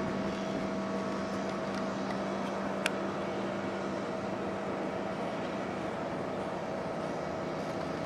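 Train running steadily, an even rumble with a constant hum and a single sharp click about three seconds in.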